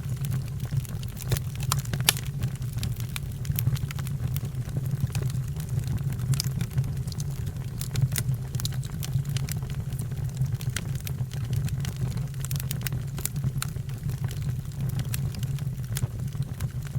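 Fire crackling, with many sharp irregular pops over a steady low rumble.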